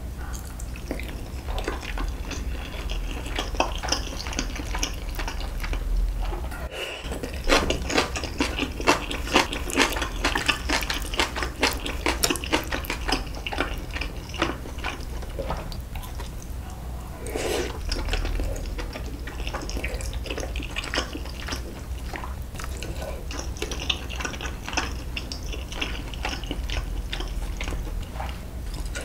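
Close-miked wet chewing and mouth sounds of soft, tender braised beef short rib in spicy sauce: a dense run of sticky clicks and smacks, busiest in the middle, with the odd clink of utensils against the metal pan.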